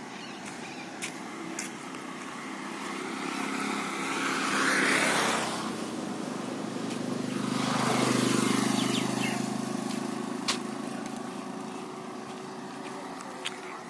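Two road vehicles pass one after the other. Each engine-and-tyre sound rises and then fades, the first loudest about five seconds in and the second about eight seconds in.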